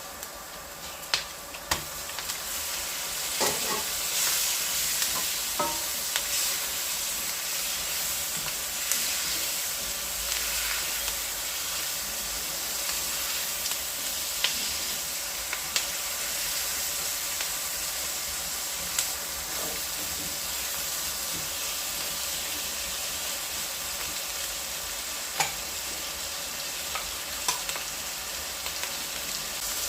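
Food sizzling steadily in a hot pan while it is stirred, with occasional sharp clicks of the utensil against the pan.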